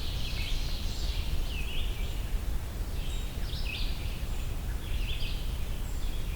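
A songbird singing short, high phrases separated by pauses of a second or so, over a steady low background rumble.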